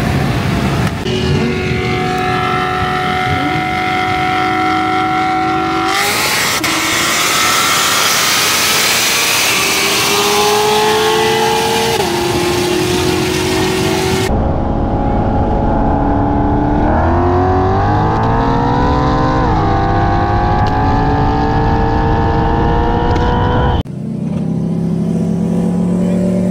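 Performance car engines revving and accelerating in a string of short clips that cut abruptly from one to the next. About two thirds of the way through, one engine's pitch climbs steeply under acceleration, dips briefly, then climbs again.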